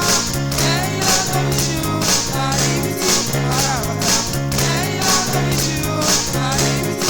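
Live gospel praise music: a band with bass, drums and cymbals or tambourine keeping a steady beat about twice a second, under a wavering melody line that may be singing.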